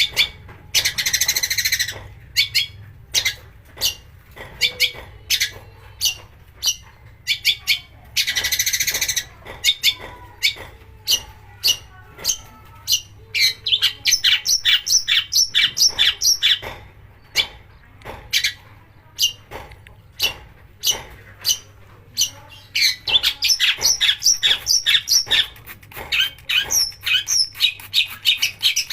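Long-tailed shrike (cendet) singing a lure song: two harsh rasping bursts, about a second in and again about eight seconds in, between long runs of sharp clicking, chattering notes that come thick and fast in the second half. The harsh bursts are the rough 'tembakan' phrases that shrike keepers use to rouse other birds.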